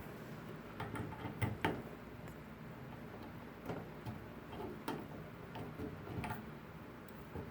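Scattered small metal clicks and taps at irregular intervals as the retaining clip is worked back into a Moen shower valve to hold the new cartridge in place.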